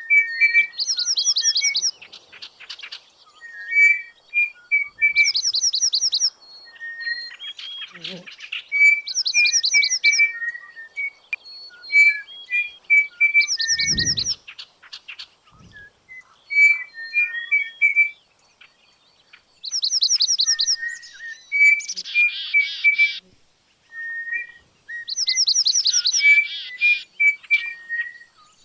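Bird song: a phrase of short, clear notes followed by a rapid, high chatter, repeated about every four to five seconds. A single low thump comes about halfway through.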